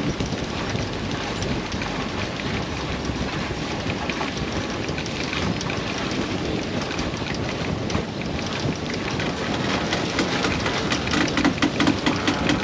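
Wind buffeting the microphone and water rushing along the hull of a sailboat under way under sail, a steady noisy rush that turns choppier near the end.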